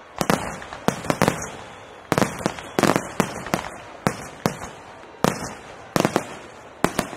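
Aerial fireworks shells bursting overhead in a rapid barrage: sharp bangs in clusters of two to four about every second, each trailing a short echo.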